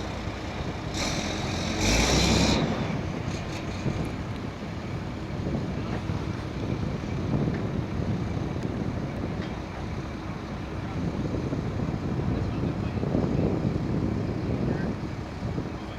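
Push boat's 300 hp John Deere diesel engine running steadily, a low rumble, with a brief louder rush of noise about two seconds in.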